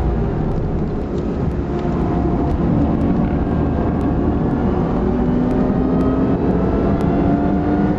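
Supercharged Lexus IS350 3.5-litre V6 heard from inside the cabin, running hard on track with its pitch slowly rising as the car accelerates, over steady road and wind rumble.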